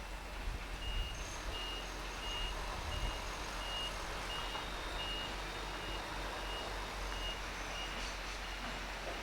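Electronic warning beeps, a single high tone repeating about twice a second, over a low steady rumble.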